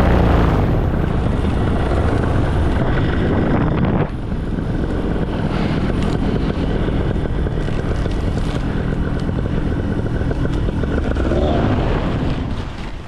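Paramotor engine and propeller running loudly, with wind on the microphone; the power drops abruptly about four seconds in, and the engine winds down near the end.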